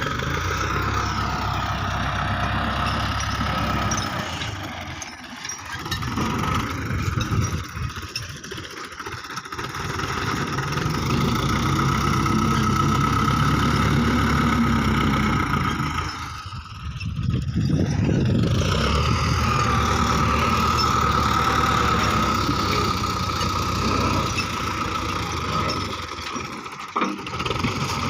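Belarus 510 tractor's diesel engine running steadily. The sound drops away briefly a few times, most clearly about two thirds of the way in, then comes back at full strength.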